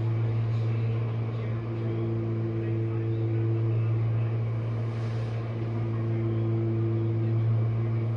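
Jenn-Air dishwasher's motor running with a steady low hum and a few faint higher tones above it, sounding as if there is no water left in the tub.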